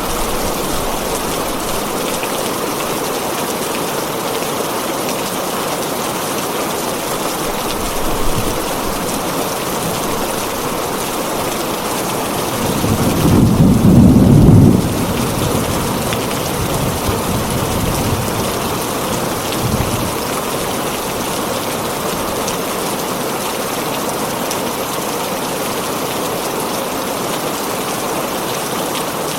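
Heavy rain falling on a tin roof, a steady hiss, with a roll of thunder about halfway through that is the loudest moment, and a couple of fainter low rumbles before and after it.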